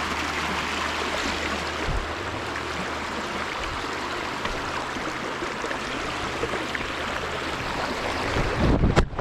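Creek water running over rocks: a steady rushing hiss. A few low knocks near the end.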